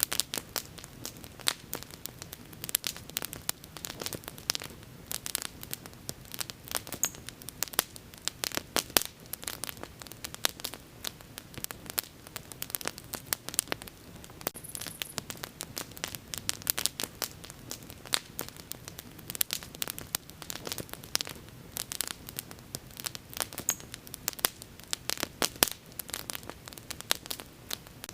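Wood fire crackling and popping, with frequent irregular sharp pops over a soft steady rush of burning.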